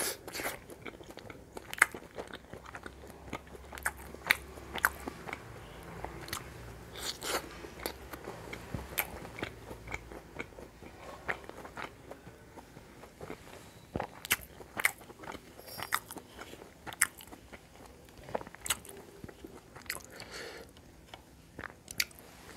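Chewing and biting of a steamed momo dumpling in red sauce, with many irregular mouth clicks and smacks.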